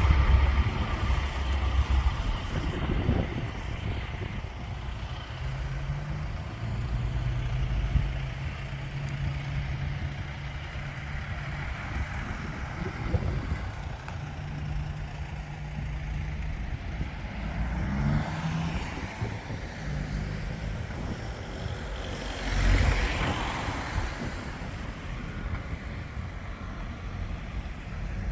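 Heavy lorry diesel engines running as trucks pass, the engine note rising briefly about two-thirds of the way through. Shortly after comes a louder rush of noise lasting a second or two.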